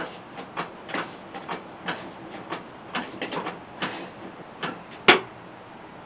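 Metal clicks of a spindle bolt being tightened by hand with a wrench, coming irregularly two or three times a second, with one louder sharp metal clank about five seconds in.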